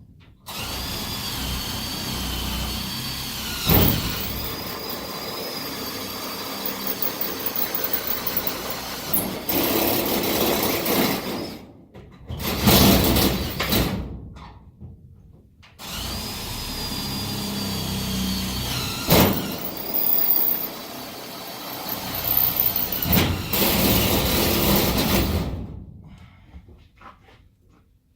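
Cordless power drill drilling holes: the motor runs in two long stretches with short bursts between, its whine dipping in pitch as the bit loads up, with a sharp loud jolt once in each long stretch.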